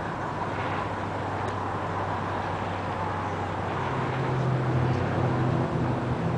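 Steady urban traffic noise, with a motor vehicle's low engine hum coming up and growing louder about four seconds in.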